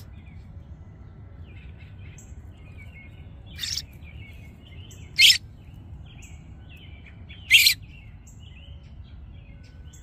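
Small birds chirping in short notes throughout, with three loud, harsh calls spaced a second or two apart in the middle: a fledgling songbird begging for food with its beak gaping.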